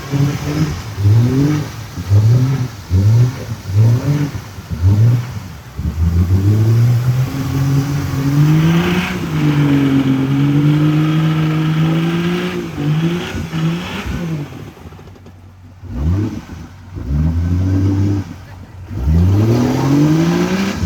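Mud-racing truck's engine revving hard: a run of quick rising revs, then held at high revs for several seconds, easing off about fourteen seconds in, then revving up sharply again near the end.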